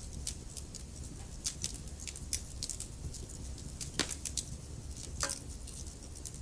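Wood fire in a fireplace crackling, with a steady low rumble of the flames and frequent sharp pops and snaps of burning logs. Two louder pops come about four and five seconds in.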